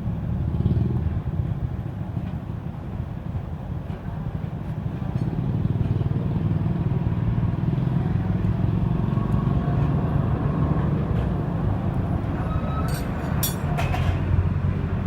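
A steady low rumble, with a few sharp clicks late on.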